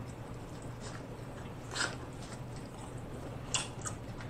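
Close-up eating: corn on the cob being bitten and chewed, with a few short wet crunches about two seconds in and again near the end.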